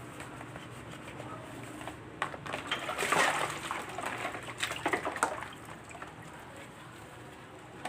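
Liquid sloshing and splashing with a few sharp knocks, loudest from about two to five and a half seconds in, then dying back to a low background.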